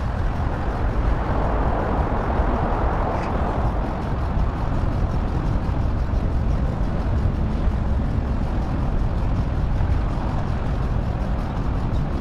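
Steady rush of wind and road noise from a ride, with vehicle traffic in it and no clear individual events.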